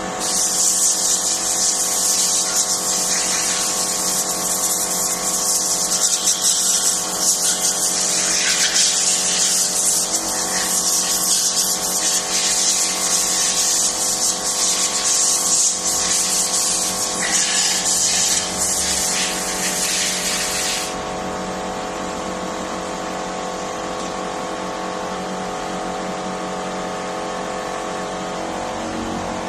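A high-pressure cleaning jet hissing steadily, cutting off about twenty seconds in, over the steady hum of a motor-driven machine that keeps running.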